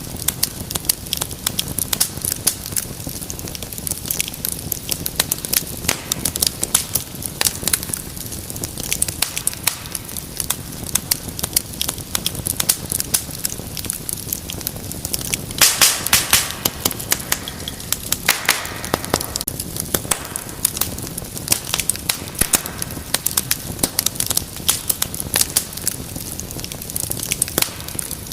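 Wood fire crackling with many sharp pops over a steady low rumble, a louder cluster of pops about halfway through and a brief hiss soon after.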